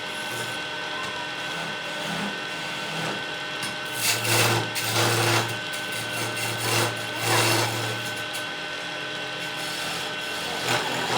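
Wood lathe running with a steady motor whine, while a turning tool cuts and scrapes the spinning wood in several short, louder bursts.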